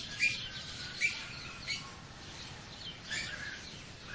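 Birds chirping: a few short, quick downward chirps, about one a second, over a faint background hiss.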